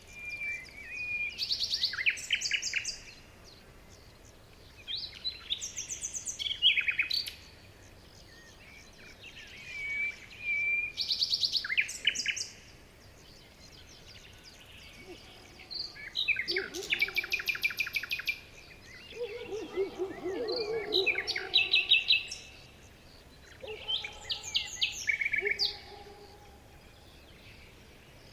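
Songbirds singing in repeated phrases of whistled notes and fast trills, each phrase lasting two to three seconds with short pauses between. Lower-pitched notes join in during the second half.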